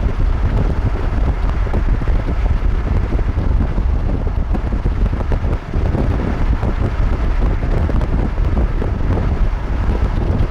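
Strong wind buffeting the camera microphone: a loud, uneven rushing with a heavy low rumble.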